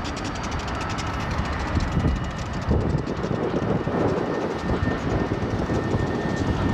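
Freight cars of a mixed freight train rolling past: a steady rumble of steel wheels on rail with a rapid run of clicks.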